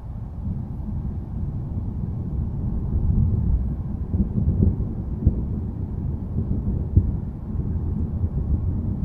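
Low, distant thunder rumbling continuously, deep and without crack or sharp clap, swelling just after the start and rolling with a few stronger surges around the middle.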